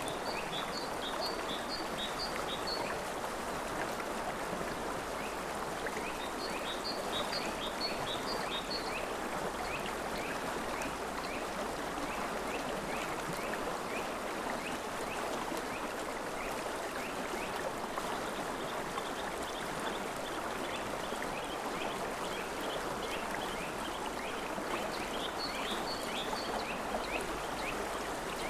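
River water flowing steadily, with birds calling over it in runs of quick, repeated high chirps, three of them in short bursts and another chirping on and off through most of the stretch.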